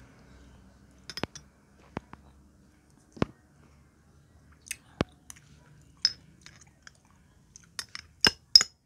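Close-up chewing of dalandan orange segments: irregular sharp mouth clicks and smacks about once a second, coming faster near the end.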